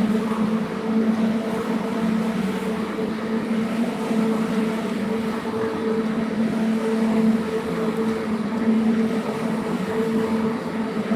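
A cleaning machine's motor running steadily, a constant hum with a slight waver in level.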